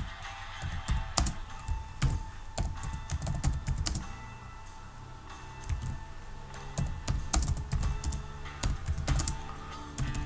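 Computer keyboard typing in irregular bursts of key clicks, pausing briefly midway, over quiet background music.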